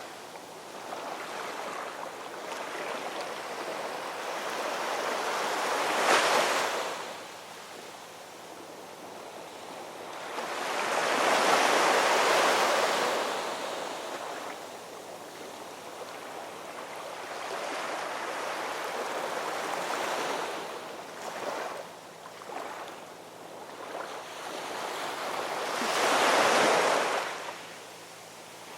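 Ocean surf: waves rolling in and washing back in a steady hiss that swells and fades. Three larger waves build and break, about six seconds in, around twelve seconds in and near the end, with smaller washes between them.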